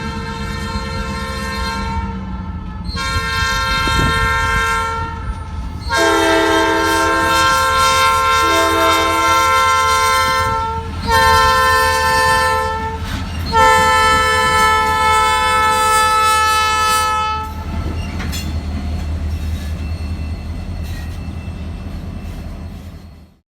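Locomotive air horns sounding a run of long chord blasts, five in all, with a second, lower-pitched horn chord overlapping during the third blast, over the steady rumble of the engines. After the last blast, about 17 seconds in, only the engine rumble goes on until it cuts off abruptly near the end.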